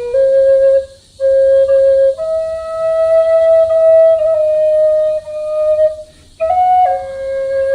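Solo flute playing a slow melody of long held notes, with short pauses for breath about a second in and about six seconds in.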